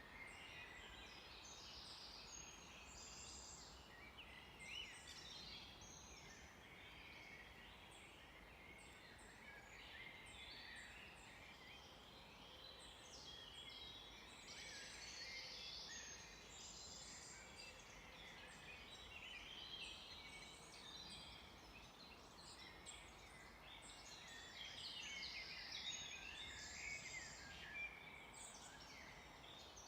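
Faint, dense chorus of many songbirds, with short overlapping chirps and trills, over a low steady hiss.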